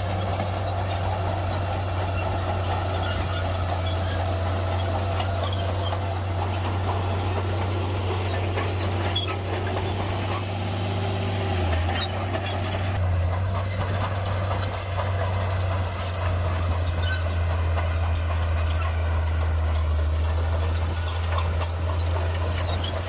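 Heavy earthmoving machine's diesel engine running steadily, a deep, even hum with scattered small clicks and cracks over it.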